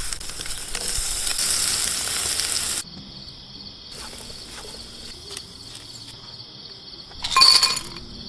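Steak frying in a hot pan, a loud sizzle that cuts off abruptly after about three seconds. A faint steady high tone and softer sizzling follow, with a short loud burst of sizzling and clinking near the end.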